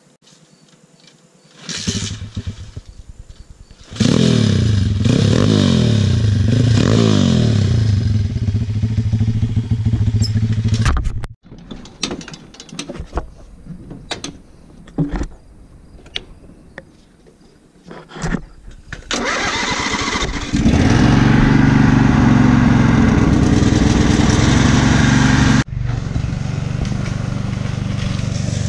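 Small single-cylinder engine pulled into life and revved unevenly, cutting off abruptly partway through, then some knocking before it starts again and runs steadily at high speed.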